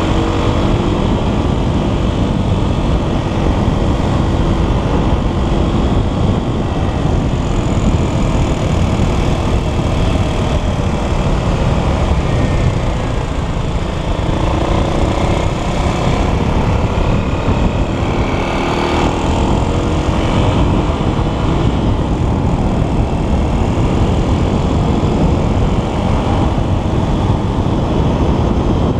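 Dirt bike engine running while riding, its pitch rising and falling with the throttle over a dense, steady rumble.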